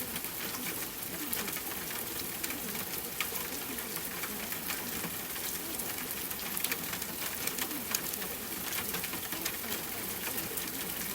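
Rain-style ambience: a steady hiss dotted with many small crackles and ticks, with low wavering sounds underneath.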